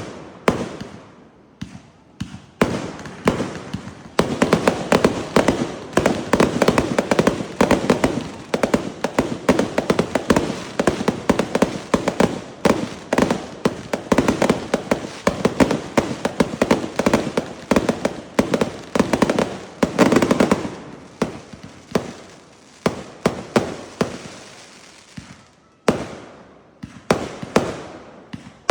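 Fireworks going off in a rapid, dense run of cracks and bangs that thins out about two-thirds of the way through into separate bangs, with a brief lull before a few more near the end.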